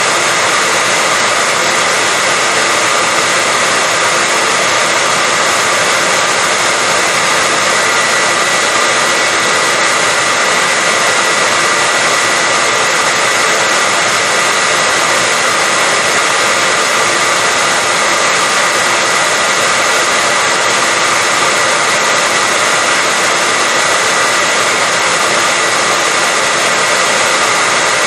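Hair dryer running steadily, a constant whooshing blow with a steady high whine, used as white noise to lull a baby to sleep.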